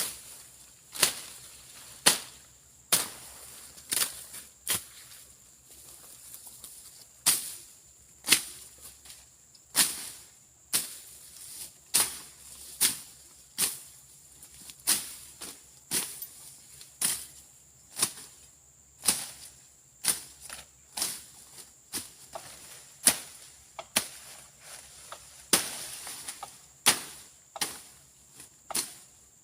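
A hand-swung slashing blade cutting through grass and brush, one quick swishing stroke about every second, steady and rhythmic.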